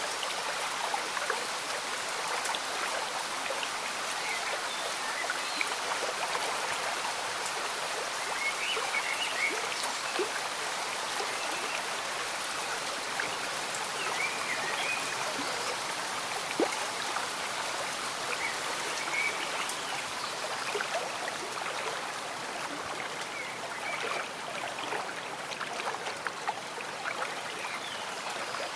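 Slow-moving stream bubbling and trickling steadily, with rain falling on leaves and water, and scattered short high notes and drop clicks through it.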